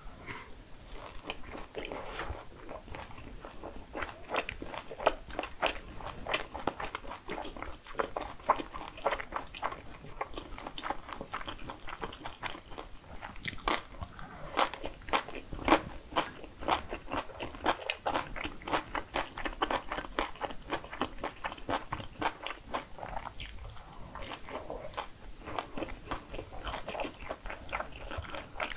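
Close-miked eating sounds: crunchy chewing of glazed fried chicken (kkanpunggi), with a crisp bite of pickled yellow radish about halfway through. Dense, rapid crunches continue throughout.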